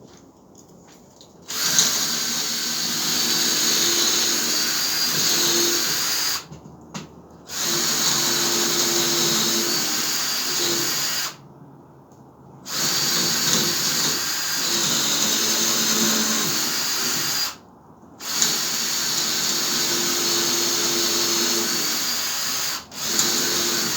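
Power drill boring holes into the end of a seasoned log, running steadily in about five spells of four to five seconds each with short pauses between them.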